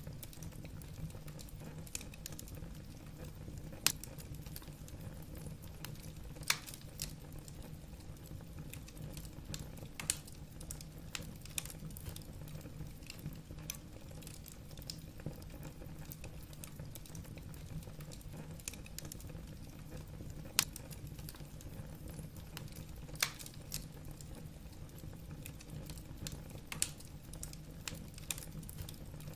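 Wood fire burning in a fireplace: logs crackling with irregular sharp pops, a few louder than the rest, over a low steady background.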